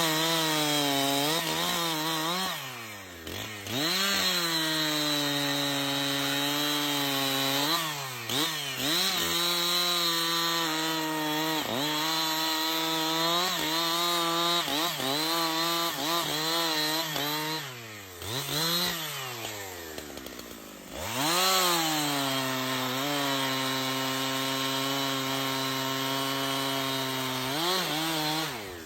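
Chainsaw engine running at high revs through wood cuts, its pitch sagging under load and rising again, over and over. About two-thirds of the way through it drops low for a couple of seconds, then revs back up into the cut.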